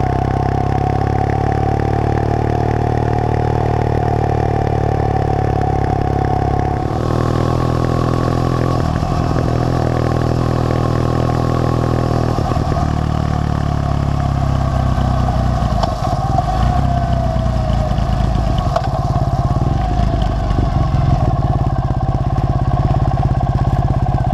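Triumph Thruxton parallel-twin motorcycle engine running on the move, heard close from a bike-mounted camera with wind rushing past. The engine note changes about seven seconds in and then shifts and falls through the second half.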